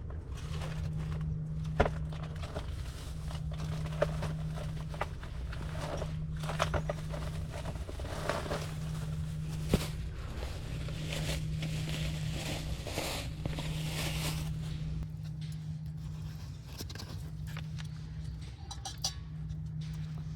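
Firewood burning in a titanium fire pit: scattered crackles and pops, with hissing stretches in the middle, over a steady low hum that breaks off briefly every second or two.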